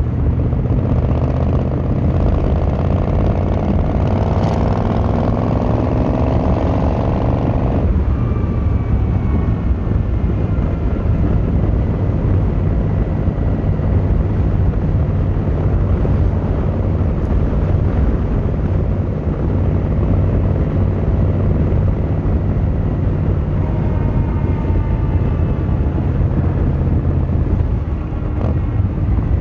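Yamaha XVZ1300 Royal Star's V4 engine and exhaust while riding: the engine pulls up in pitch for about eight seconds, then drops suddenly at a gear change and runs on steadily, with another gentle rise under acceleration later.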